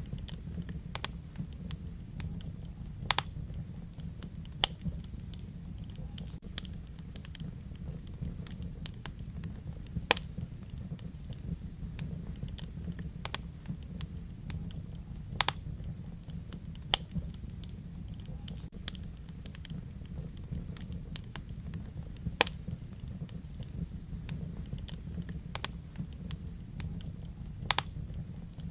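Wood fire crackling in a fireplace: a low steady rumble of flames with constant small crackles and sharp pops at irregular moments, several of them loud.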